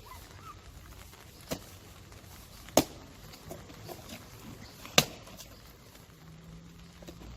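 Boots stamping into puddles: three sharp slaps, the first weaker, the last the loudest.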